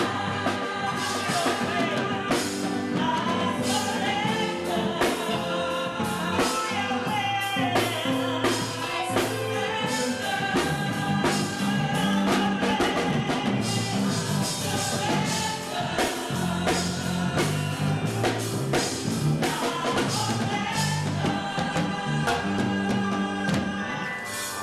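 Gospel music with singing over a band's bass and drums, with a steady beat.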